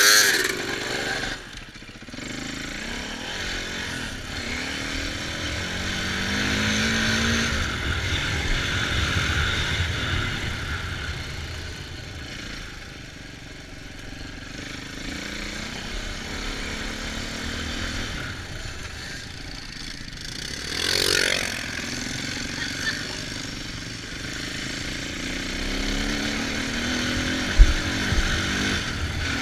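Dirt bike engine running while being ridden off-road, its pitch rising and falling as the throttle opens and closes, with one sharp knock near the end.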